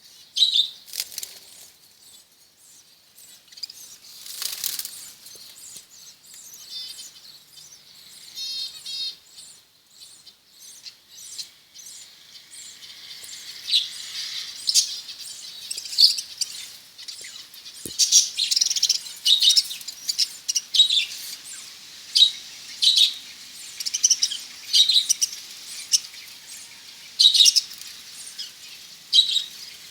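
A colony of budgerigars chirping: sparse calls with a short warble in the first half, then many short, sharp chirps coming thick and fast from about the middle on.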